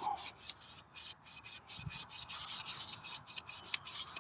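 Rapid scrubbing strokes, about four or five a second, inside a David Brown engine's oil sump as the sludge is cleaned out of it and its baffles with petrol. One dull knock near the middle.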